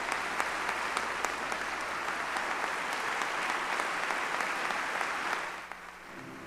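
Large audience applauding, starting suddenly and dying away near the end.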